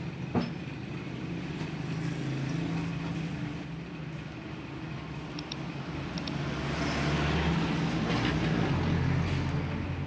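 Steady low hum of a motor vehicle engine, swelling louder about six and a half seconds in and easing off near the end, with a sharp click near the start.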